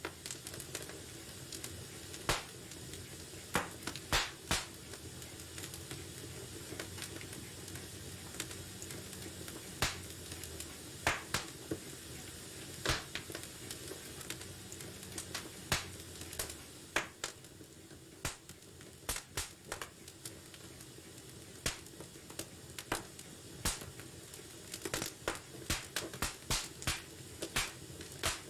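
Wood fire burning in a fireplace: a steady low hiss and rumble of the flames with sharp, irregular crackles and pops of the burning logs, coming thicker near the end.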